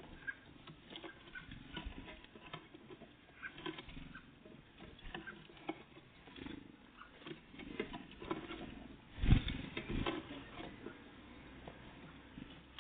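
Small birds, great tits and blue tits, feeding at a bird feeder: irregular light tapping and pecking clicks, with a louder thump about nine seconds in.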